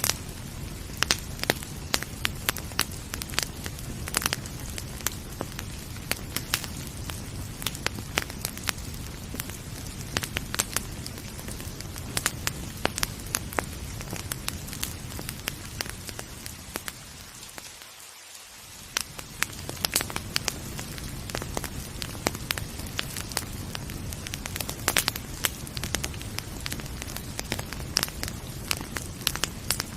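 Wood fire crackling with frequent sharp pops and snaps, over a steady low rush of rain. The low rush dips away briefly about two-thirds of the way through.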